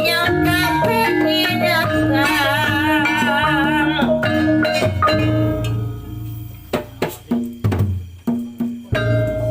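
Javanese traditional ensemble music for a reog/kuda lumping performance: steady repeating pitched percussion notes under a wavering, vibrato melody line. About five seconds in the melody drops out and sharp drum strokes take over, roughly two a second.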